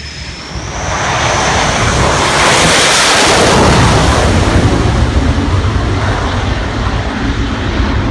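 Jet aircraft roaring past close by: a high whine leads into a loud roar with a deep rumble that builds over the first couple of seconds, is loudest about three seconds in, and stays loud.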